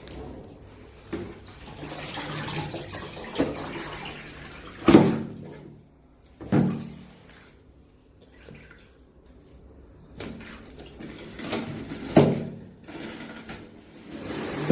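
Water sloshing and splashing in a plastic spin-mop bucket, with three louder splashes or knocks spread through and a quieter lull between them.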